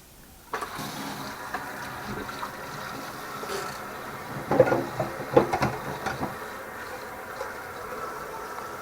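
Electric blender switched on about half a second in and running steadily on the bananas, with a few sharp knocks in the middle.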